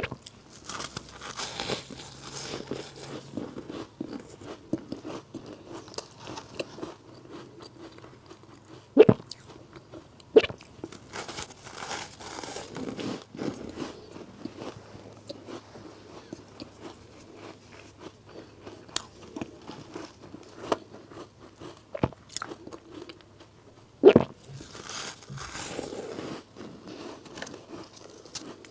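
Bites into powdery frozen matcha ice, close to the microphone, each sharp crunch followed by a couple of seconds of soft crunchy chewing. There are four bites: one at the start, two close together about a third of the way in, and one near the end.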